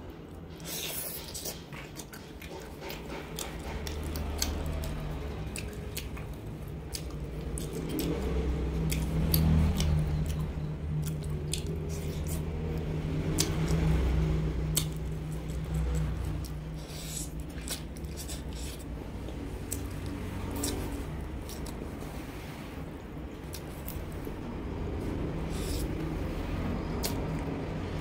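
A person chewing and biting grilled duck close to the microphone, with many sharp mouth clicks and wet squishes, over a steady low hum that swells twice.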